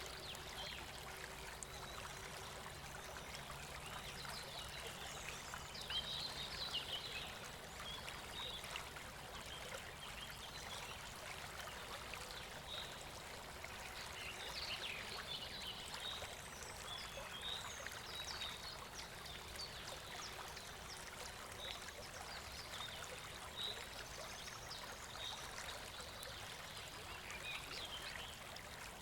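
Flowing stream water, a steady soft rush, with scattered high chirps over it.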